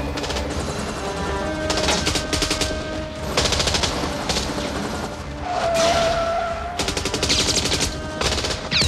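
Automatic gunfire in repeated bursts of rapid shots, over film score music.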